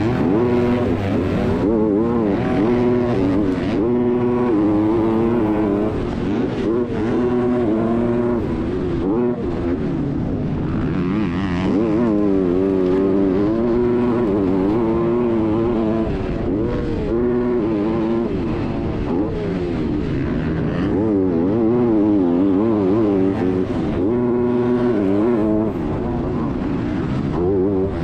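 Motocross motorcycle engine racing, its pitch rising and falling continually as the throttle is worked through the gears.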